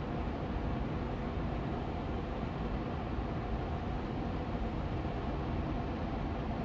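Air purifier fan running steadily on medium speed: an even hum that rushes, with its energy mostly in the low and middle range.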